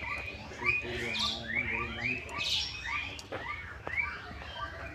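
Birds chirping in the background: short rising calls repeating a couple of times a second. One faint click comes a little past the middle.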